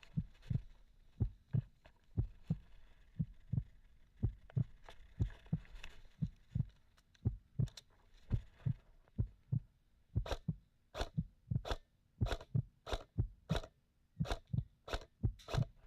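Footsteps: steady low thuds about two a second, and from about ten seconds in each step also gives a sharp crunch.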